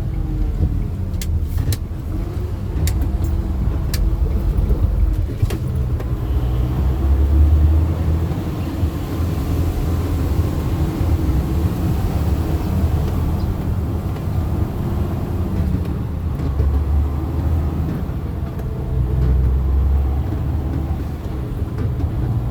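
Steady low engine and road rumble of a vehicle on the move, heard from inside the cabin, with a few faint clicks in the first few seconds.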